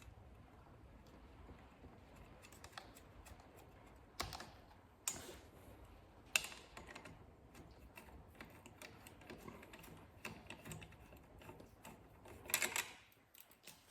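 Faint, scattered clicks and taps of small metal parts and hand tools being handled while fitting a motorcycle's auxiliary light holder. Sharper knocks come about four, five and six seconds in, and a short run of clicks comes near the end.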